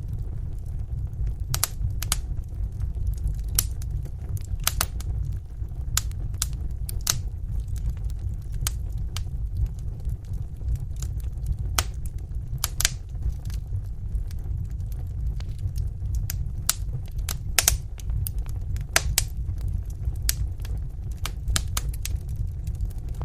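Wood fire burning in a fireplace: a steady low rumble of the flames with irregular sharp crackles and pops, several a second at times.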